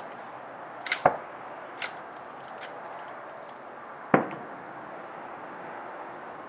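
Distant aerial fireworks going off: a sharp double crack about a second in, lighter pops just after, and a loud bang with a short echo about four seconds in, over a steady background noise.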